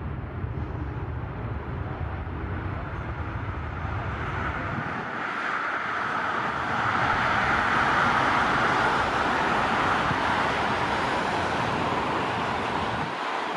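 Jet airliner passing close by, a broad rushing engine noise that swells to its loudest about seven to ten seconds in and then eases off slightly.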